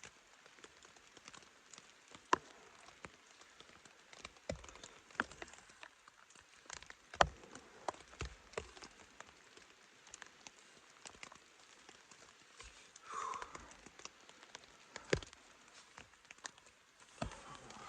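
Irregular drips of rain tapping on a tent shelter's fabric, single sharp drops every second or so over a faint hiss. A brief, louder rustling sound comes about three-quarters of the way through.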